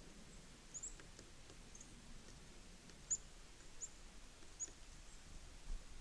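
Small songbirds at a winter feeder giving short, high chirps, about five of them spaced across a few seconds, faint over a low background hum.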